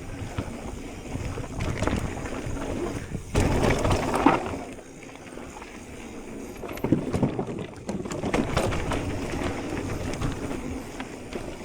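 Electric mountain bike ridden along a dirt trail: continuous tyre and bike noise with louder rough jolts about four seconds in and again around seven seconds.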